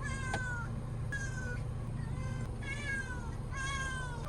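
A cat meowing over and over, about one falling-pitched meow a second, over a steady low hum.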